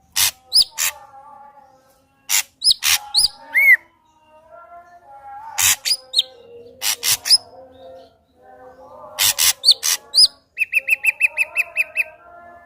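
Ashy drongo singing: loud sharp notes and quick rising whistles alternate with lower warbling phrases. Near the end comes a rapid trill of about seven even notes a second.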